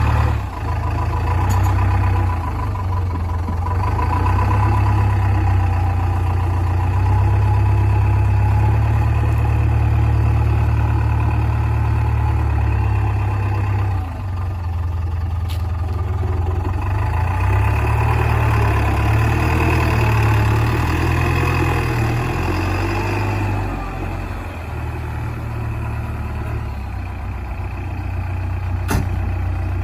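Diesel engine of a backhoe loader running steadily under work, its level rising and falling a few times as the load changes.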